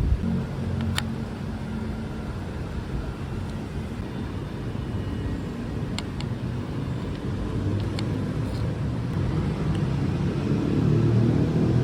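Steady low rumble of a car's engine and road noise while driving, swelling slightly near the end, with a few brief sharp clicks.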